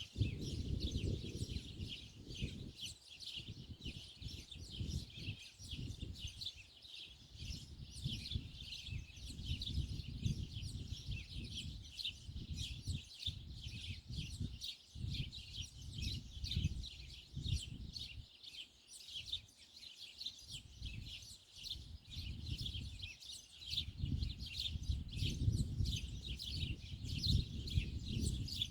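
Many small birds chirping at once, a dense, unbroken chatter of short high chirps. Under it runs a low rumble that swells and fades irregularly.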